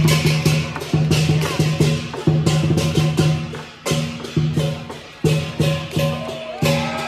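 Lion dance percussion: a Chinese lion drum beaten in a steady driving rhythm, with clashing cymbals on the beats.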